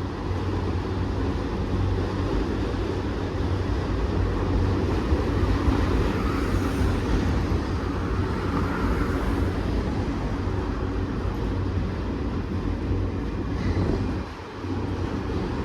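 Long CSX freight train's cars rolling slowly past, a steady low rumble of steel wheels on rail with a constant hum underneath. The rumble drops briefly about fourteen seconds in.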